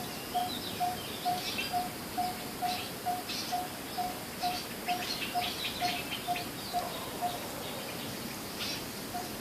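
Coppersmith barbet calling, a single hollow 'tuk' note repeated about twice a second. It pauses a little after seven seconds in and starts again near the end, while other birds chirp higher up.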